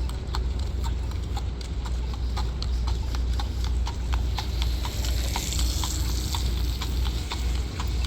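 A horse's hooves clip-clopping on pavement in a quick, uneven run of strikes, over a steady low rumble.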